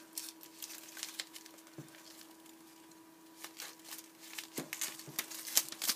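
Cardboard pieces and ribbon being handled while a knot is tied, giving scattered light clicks and rustles, over a faint steady hum.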